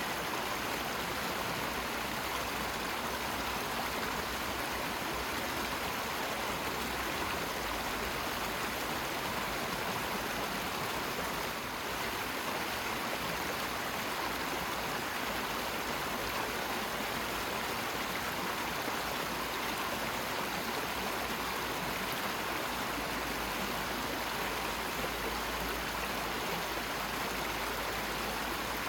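Steady, unbroken rushing of flowing water, like a stream or waterfall.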